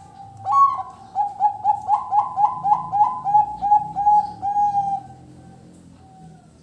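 Zebra dove (perkutut) singing: a loud opening note, then a quick rhythmic run of about fourteen short coos at roughly three a second, ending about five seconds in, with one faint note after.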